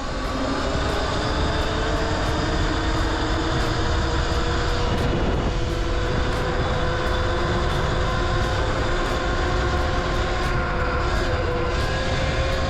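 Electric dirt bike's motor whining at a steady cruising speed, its pitch climbing slightly over the first few seconds and then holding, with heavy wind rumble on the microphone.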